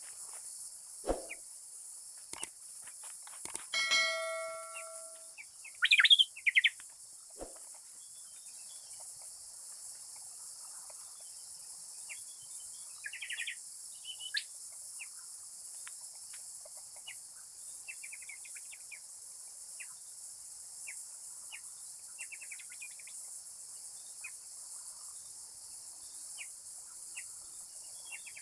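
A steady high drone of insects, with short chirping bird calls scattered through it. About four seconds in comes a ringing, bell-like tone that fades over a second or so, and soon after it the loudest sounds, a quick pair of sharp chirps. A few light clicks are also heard.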